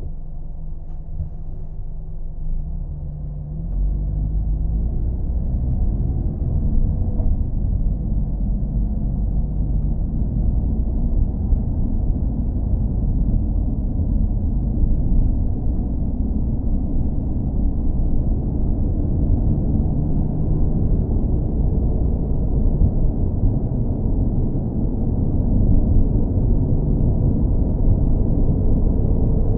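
Car engine running with a steady low rumble, stepping up in loudness about four seconds in.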